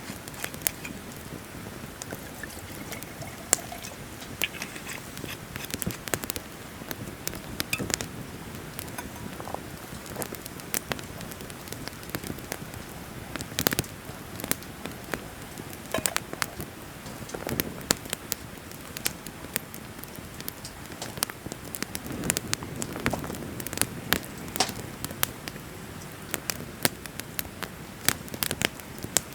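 Wood bonfire crackling, with irregular sharp pops and snaps over a steady hiss.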